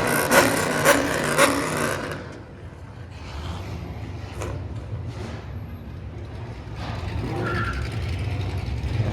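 Car engine noise: a loud stretch of revving with repeated peaks for about the first two seconds, then a low, steady engine rumble that grows louder near the end.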